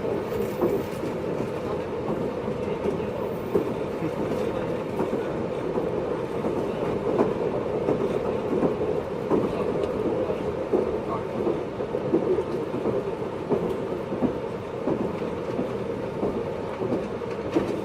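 Running sound inside a JR East 583 series electric train's motor car at speed: a steady rumble of wheels and running gear, with occasional sharper clacks at irregular intervals.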